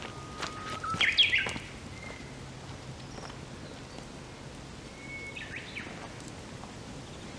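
A songbird sings two phrases, each a held whistle breaking into a quick warbled flourish; the first, about a second in, is the loudest sound. Under it a wood fire crackles with scattered small pops.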